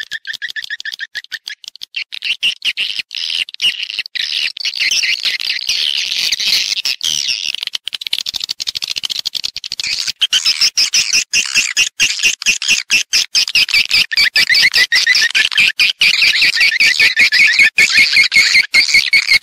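Swiftlets twittering in a dense, fast stream of high chirps and clicks, getting louder about halfway through. This is a recorded swiftlet call-and-roost sound of the kind played in swiftlet houses to lure the birds in to nest.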